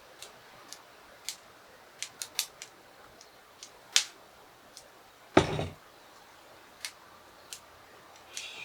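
Irregular sharp clicks and taps from handling objects, with a stronger click about four seconds in and one heavier thump with a short rustling tail about five and a half seconds in.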